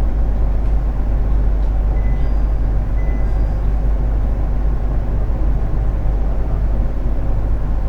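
Inside a JR 701 series electric multiple unit, the steady low hum and rumble of the train's on-board equipment, with the train standing at a station during its one-man boarding announcement cycle.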